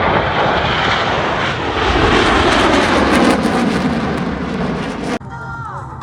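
A low-flying airplane passes, a loud engine roar whose pitch falls as it goes by. The sound cuts off abruptly about five seconds in, leaving a much quieter background.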